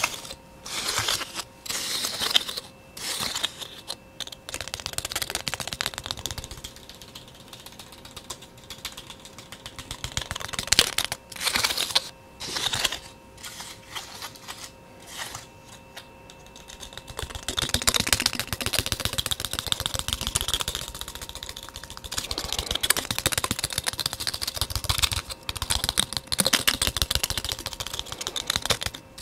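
Fast, continuous tapping made up of rapid runs of small clicks, with quieter stretches in the first half and a louder, busier run from about halfway through.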